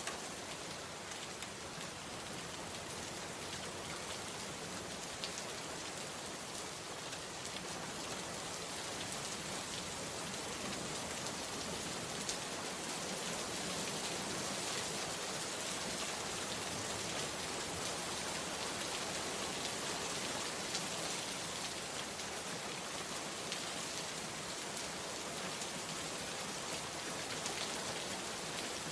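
Steady rain falling, a dense even hiss of drops with scattered individual drop ticks on a surface.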